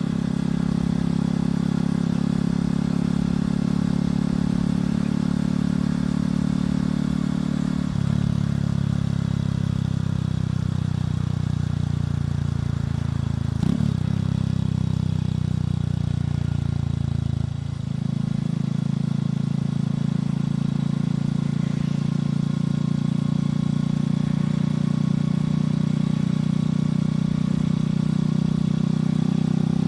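Motorcycle engine and exhaust running steadily while riding, with a brief change in the engine note three times along the way.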